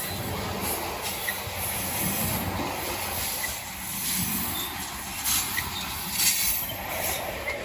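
Covered hopper cars of a freight grain train rolling past on the rails, a steady rushing noise from the wheels and cars as the tail end of the train goes by.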